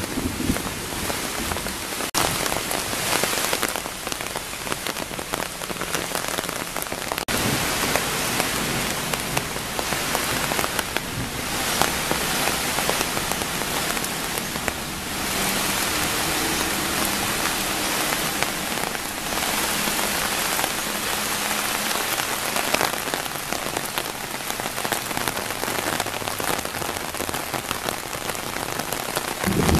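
Heavy rain pouring steadily on dense foliage, an even, unbroken hiss of downpour.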